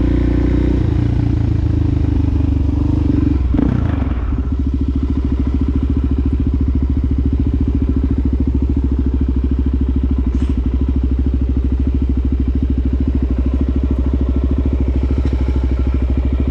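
Suzuki DRZ400SM's single-cylinder four-stroke engine through a Yoshimura exhaust, running loud and steady. About four seconds in the revs drop, and it settles into an even low-revving pulse.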